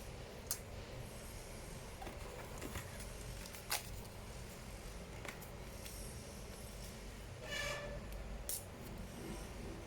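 A few sharp clicks and taps from small hard parts or tools being handled, with a short scraping rustle near the end, over a steady low hum.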